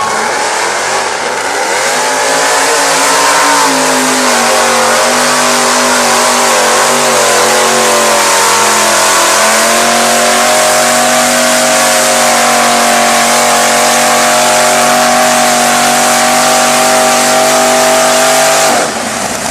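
A modified bogger truck's engine at full throttle: the revs climb over the first few seconds, then hold high and nearly steady with a slight waver for about fifteen seconds. The sound cuts off sharply near the end.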